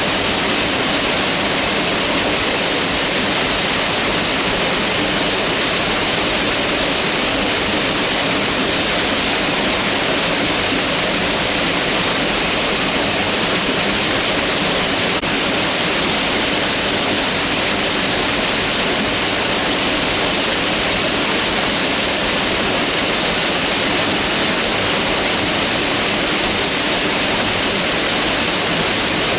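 Mountain river rushing over rocks, a loud, steady, unbroken sound of water.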